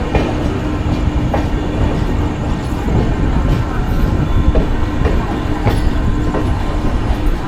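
Passenger train running on the rails, heard from on board: a steady low rumble with a held hum, broken by a few sharp clicks of the wheels over rail joints.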